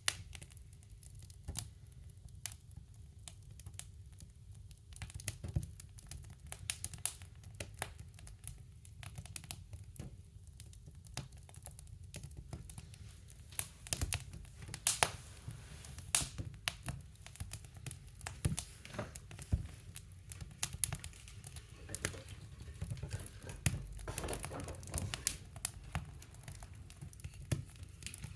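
Wood fire crackling in a woodstove: irregular sharp snaps and pops, some louder than others, over a low steady rumble.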